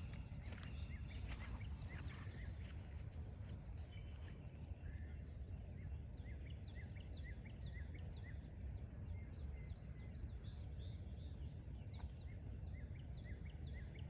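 Small songbirds calling in quick series of short, high chirps from about five seconds in, over a steady low rumble. A few footsteps on the trail near the start.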